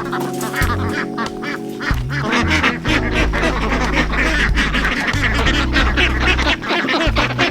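Background music with a bass line moving in held notes, with a flock of ducks quacking busily over it.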